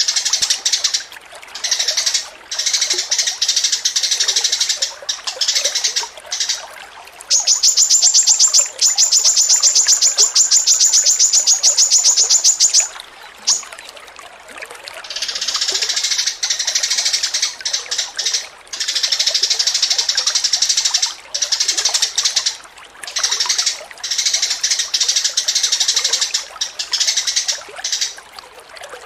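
Songbirds singing continuously in rapid chirps and phrases, the non-stop 'ngacor' song used as training recordings for caged contest birds. About seven seconds in comes a fast, even rattling trill that lasts around five seconds.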